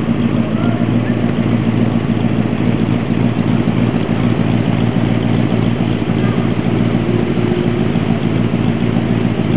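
Air-cooled Tatra V8 engine idling steadily, with a deep, even tick-over that sounds like an American V8.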